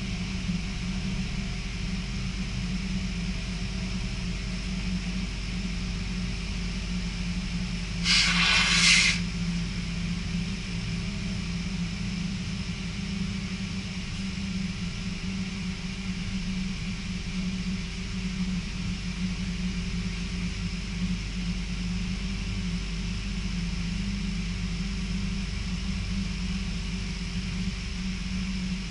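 Steady rumble of an NS passenger train running at speed, heard inside the carriage, with a constant low hum. About eight seconds in comes a brief loud whoosh lasting about a second.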